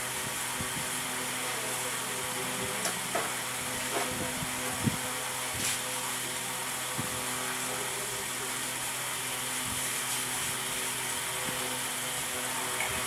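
Hand tools clinking and knocking on motorcycle parts, with a handful of scattered short strikes. A steady hum runs underneath.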